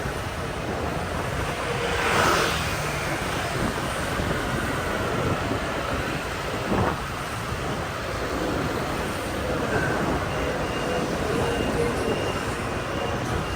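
Riding noise from a moving motorbike in town traffic: a steady rumble of engines and road with wind buffeting the microphone, and a louder swell about two seconds in.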